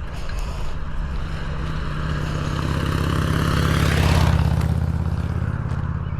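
A car passing on the road. Its engine and tyre noise swells to a peak about four seconds in, then fades.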